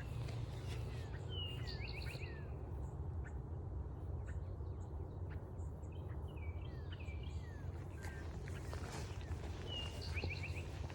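A songbird singing three short phrases, each a quick run of falling notes: about a second in, around the middle, and near the end. Under it a steady low rumble and faint scattered ticks of footsteps on the trail.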